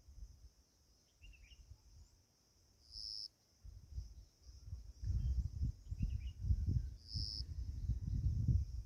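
Outdoor nature ambience: a steady high insect-like drone that swells into a louder pulse every three to four seconds, with two faint bird chirps. Low rumbling noise, like wind on the microphone, grows from about five seconds in.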